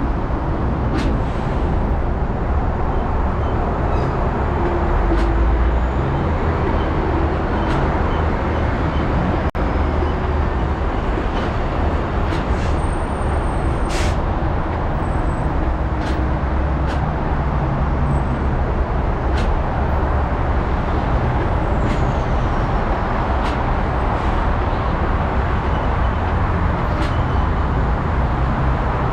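Car driving at freeway speed: steady tyre and road noise over a low engine rumble, with short clicks every second or two, one louder than the rest about halfway through.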